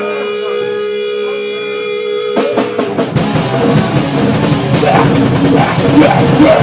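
Live heavy metal band starting a song: steady held guitar tones ring out, then a few drum hits about two and a half seconds in, and the full band crashes in with fast drums and distorted guitars about a second later.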